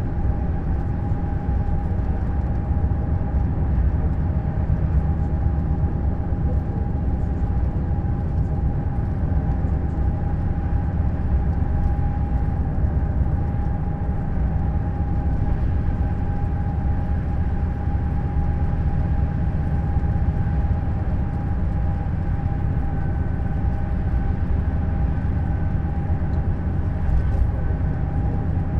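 Neoplan Skyliner N 1122/3C double-decker coach under way: a constant deep rumble of engine and running gear with a steady whine above it, and a faint higher whine that joins in about two-thirds of the way through.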